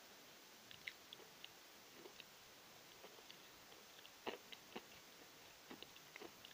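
Someone chewing Novy Oskol natural chalk: faint, irregular small crunches and clicks, with the clearest couple about four and a half seconds in.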